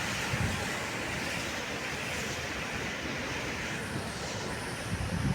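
Steady rush of sea surf and wind, with a few low wind bumps on the microphone near the end.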